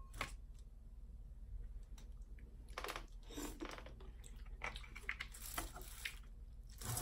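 Crab leg shells crunching and cracking as they are broken open, mixed with chewing, in scattered short bursts with a louder crack near the end.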